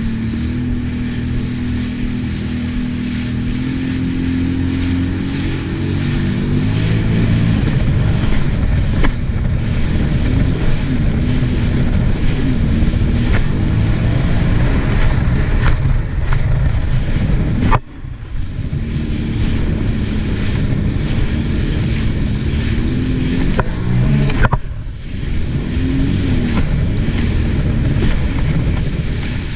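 Jet ski engine running under way, its pitch rising and falling as the throttle changes, over a haze of wind and water noise. The sound briefly drops away twice in the second half.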